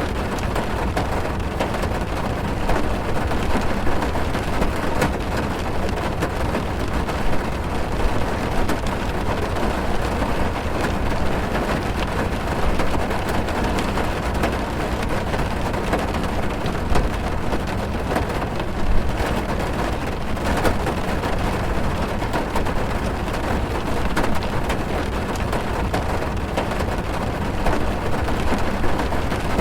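Heavy rain drumming on a car's roof and windows, heard from inside the cabin: a steady dense patter with many small sharp drop hits.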